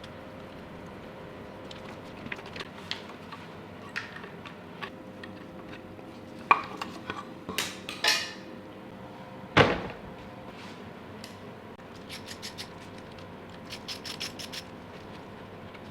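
Metal hand tools and engine parts clinking and knocking while the engine is being dismantled, with a few louder metallic knocks in the middle and a run of quick ticks near the end.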